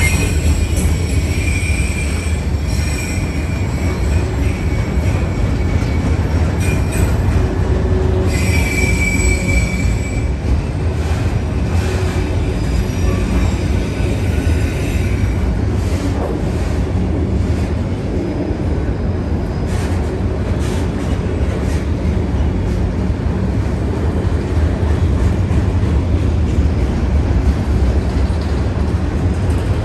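CSX freight train rolling past on street-running track, a steady heavy rumble with high-pitched wheel squeal coming and going, strongest near the start and again about eight to ten seconds in.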